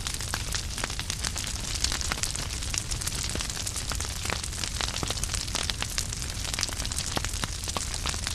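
Wood fire in a fireplace crackling steadily, with frequent sharp pops and snaps over a low rushing of the flames.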